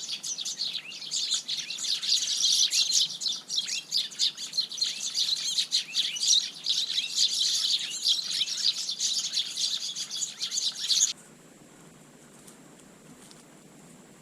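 A flock of Eurasian tree sparrows chirping densely, many short overlapping chirps at once. The chorus cuts off suddenly about eleven seconds in, leaving only faint background.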